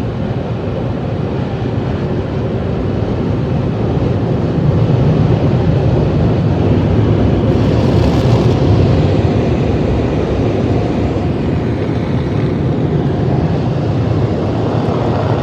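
Car wash machinery running: a loud, steady rushing noise over a low rumble, swelling for a few seconds in the middle.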